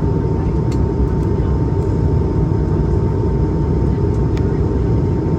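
Steady airliner cabin noise inside an Airbus A220-300, a deep even roar from its Pratt & Whitney PW1521G geared turbofans and the airflow, with a thin steady hum over it.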